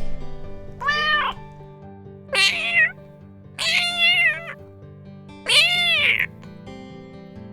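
Domestic cat meowing four times, each call about half a second long with a pitch that rises and falls, over steady background music.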